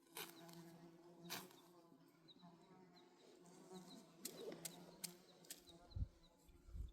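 Faint, steady insect buzzing, with scattered light clicks and a few faint high chirps.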